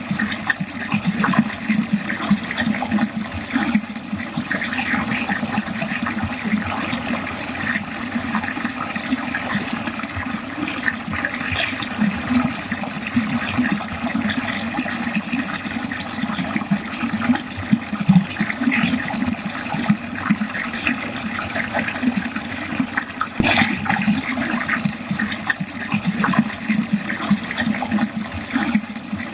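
Water running steadily down a drain.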